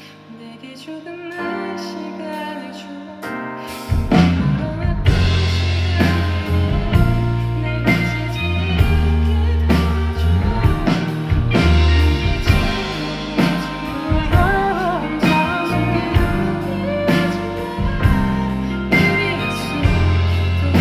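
Live pop band playing an instrumental passage: soft sustained keyboard chords, then about four seconds in the drums and bass come in and the full band plays on loudly.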